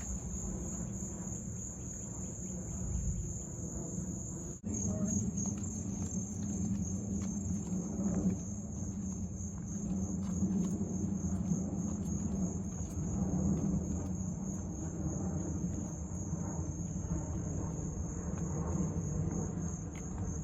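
Insects trilling: a steady high, slightly pulsing chorus like crickets, over a low rumble, with a sudden break about four and a half seconds in.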